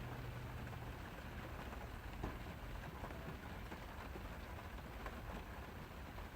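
Rain falling on a car's roof and windows, heard from inside the car: a steady hiss dotted with small drop ticks.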